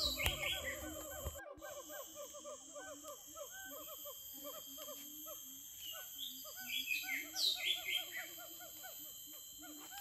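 Forest birds calling: many short, rising-and-falling whistled notes repeating over and over, with a steady high insect drone behind them. A low background sound cuts off abruptly about a second and a half in.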